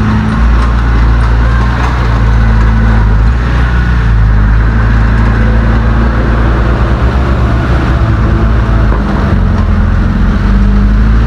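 Heavy diesel engine of earthmoving equipment (bulldozer or dump truck) running loud and steady, its pitch shifting slightly as the load changes.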